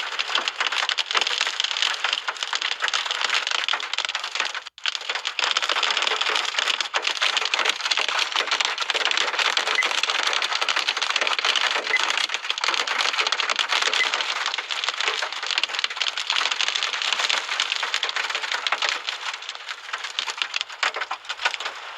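Severe windstorm: a dense, steady crackling rattle of wind-driven rain beating against a surface, which drops out briefly about five seconds in.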